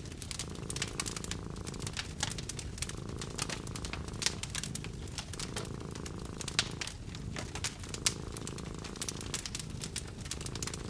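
A cat purring, a steady low rumble, under the irregular snaps and pops of a crackling wood fire, with a few sharper pops standing out.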